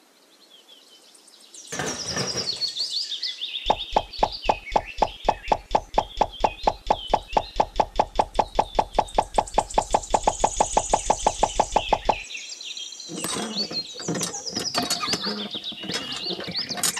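A fast, evenly spaced run of sharp knocks, about six a second, lasting about eight seconds, with birds chirping throughout.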